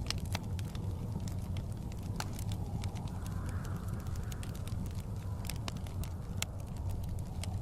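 Wood fire crackling in a fireplace, with frequent sharp pops and snaps over a steady low rumble of blizzard wind. A soft gust swells and fades a few seconds in.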